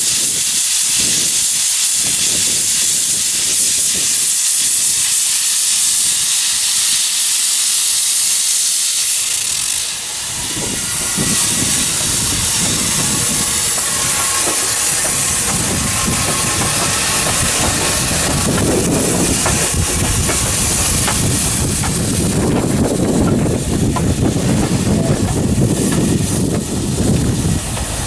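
Steam locomotive giving off a loud, steady hiss of steam. About ten seconds in, a lower rumble joins under the hiss.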